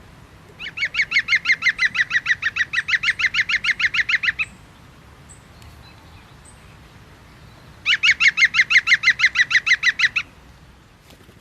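A bird calling in two long, fast runs of repeated notes, about eight a second, the first lasting about four seconds and the second, near the end, about two.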